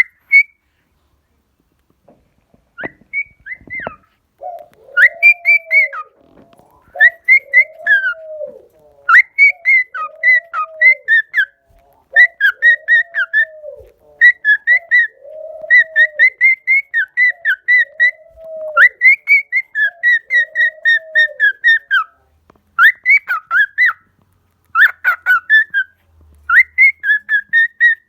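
Pet cockatiels whistling: bouts of quick, repeated chirping whistle notes, with short pauses between bouts. Under them, for much of the time, a lower rising-and-falling whistle repeats about every second and a half, then drops out.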